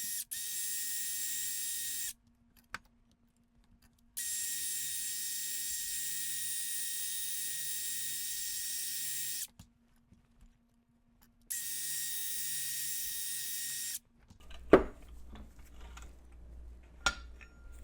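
Wire wheel scrubbing rust and grime off a metal part of a Landis Model 30 leather splitter: three passes of steady scratchy hiss, about two, five and two and a half seconds long, over the wheel motor's steady hum. The motor stops about fourteen seconds in, followed by a couple of sharp knocks as the part is handled.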